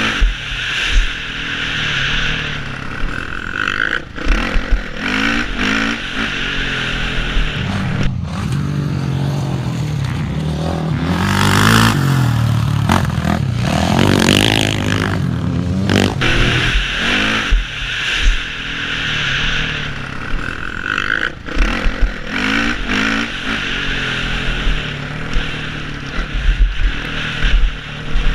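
Motocross bike engine revving hard and dropping back again and again as the bike rides a track, with wind rushing over a helmet-mounted camera. Knocks and clatter come from the bike over bumps and landings.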